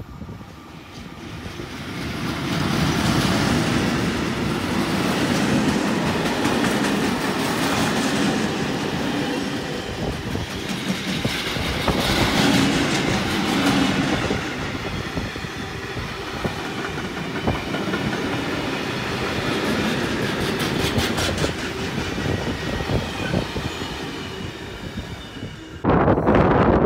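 A freight train hauled by an SBB electric locomotive, with flat wagons loaded with rails, passing close by: a steady rumble of wheels on the track that builds over the first couple of seconds, with clacks over the rail joints. Near the end it cuts abruptly to wind buffeting the microphone.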